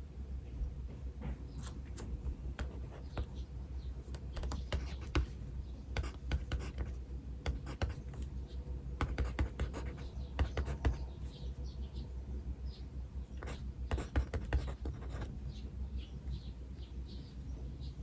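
Pen or pencil scratching across paper in bursts of quick strokes, with small birds chirping faintly in the background over a steady low hum.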